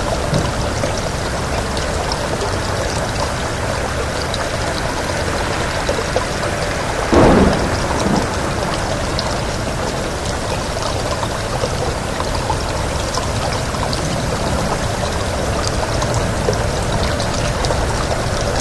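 Steady heavy rain: a dense, even hiss of drops. A short, louder burst stands out about seven seconds in.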